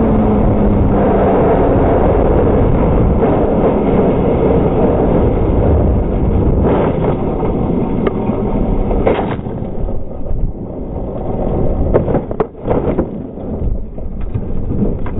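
Crashed Honda CBR600 sport bike sliding and tumbling after a high-speed crash: loud, continuous scraping and rushing noise for about nine seconds, then easing into scattered knocks and thuds as it slows.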